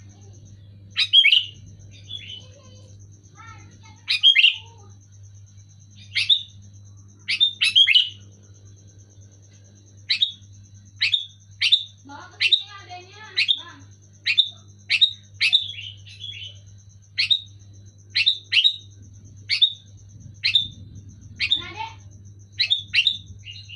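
Sooty-headed bulbul (kutilang) calling: short, sharp chirps repeated about once a second, some in quick pairs, over a steady low hum.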